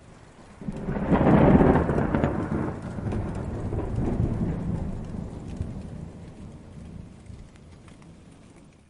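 A distant thunderstorm: a roll of thunder comes in sharply under a second in and rumbles on, fading slowly over several seconds, over a faint hiss of rain. The sound cuts off abruptly at the end.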